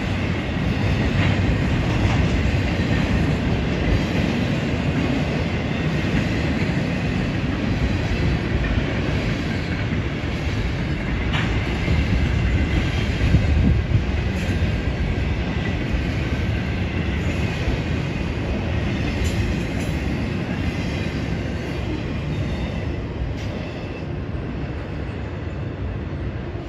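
A train rolling past: a steady rumble of railcars on the track, fading a little near the end.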